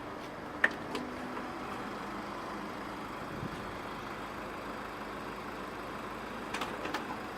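Steady background hum with one sharp click a little over half a second in, a softer click just after, and a few light clicks near the end.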